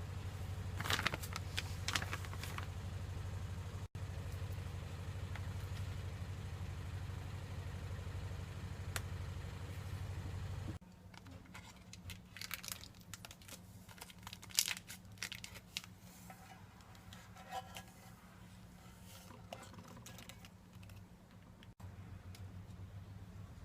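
Kitchen handling sounds of food preparation: scattered rustling, crinkling and light clicks over a steady low hum. The hum drops away at a cut about eleven seconds in and returns near the end.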